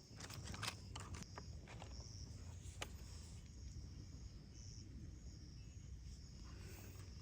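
Quiet outdoor ambience with insects chirping in a high, pulsing band and a low steady rumble, plus a few light sharp clicks in the first second and one about three seconds in.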